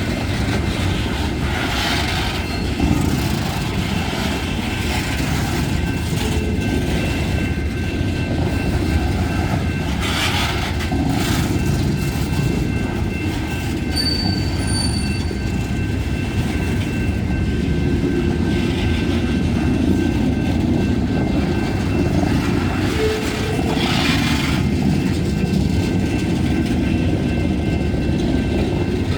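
Freight train of garbage cars rolling past with a steady rumble of wheels on rail, broken a few times by brief higher-pitched wheel squeal.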